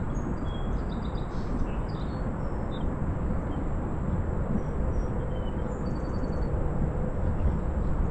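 Steady low rushing noise of wind and moving water, with small birds chirping and whistling in short high calls through most of the stretch.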